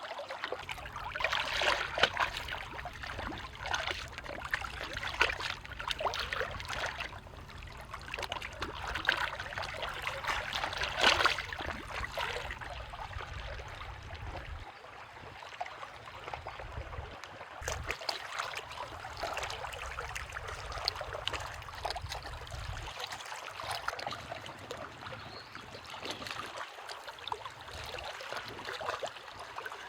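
Water trickling and splashing in an uneven stream. A low rumble underneath stops about halfway through and comes back briefly a little later.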